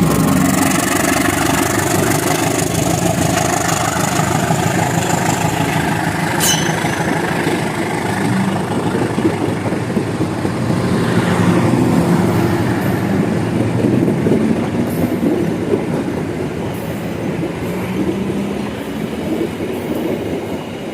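Bengawan passenger train rolling slowly past on the rails at reduced speed for trackside construction work, a steady rumble of wheels and carriages. A brief high squeal comes about six and a half seconds in.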